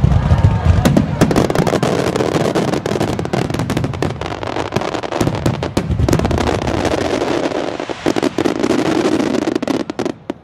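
Fireworks starmine barrage: many shells bursting in rapid succession, deep booms at the start giving way to dense crackling, cutting off near the end.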